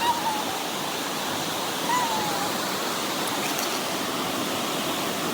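Steady rushing of a waterfall. Two faint, brief calls come through it, one at the start and one about two seconds in.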